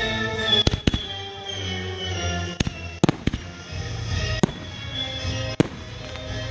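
Fireworks going off in sharp, irregular bangs, about seven in a few seconds, over music playing.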